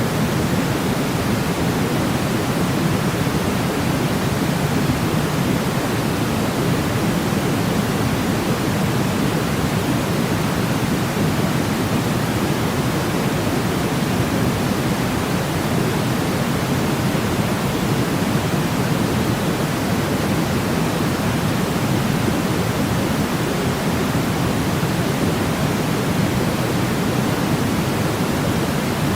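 Steady artificial noise for sleep, a constant even hiss weighted toward the low end like pink noise, with no change, rhythm or tones.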